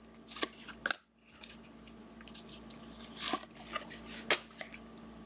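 Trading cards and their packaging being handled: irregular clicks, crinkles and rustles as cards are pulled and sorted.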